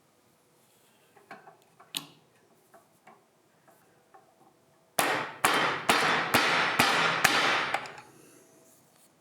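A few faint clicks, then a loud run of about six sharp, evenly spaced strikes a little under half a second apart, with a rushing noise carrying between them, lasting about three seconds.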